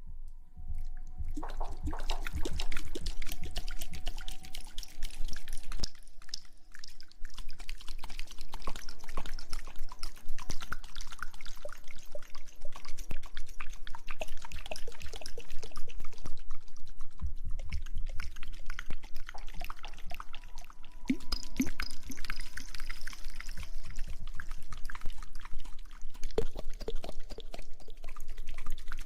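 Close-miked ASMR hair-washing sounds: a continuous wet crackle of tiny clicks and pops, like lather being worked, pausing briefly a couple of times.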